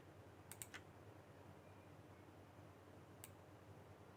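Near silence with a few faint computer mouse clicks: a quick group of three about half a second in, and a single click about three seconds in.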